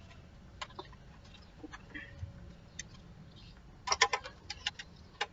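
Scattered clicks and light knocks from handling an electric fan and working its controls while testing it after fitting a new capacitor, with a quick cluster of sharper clicks about four seconds in.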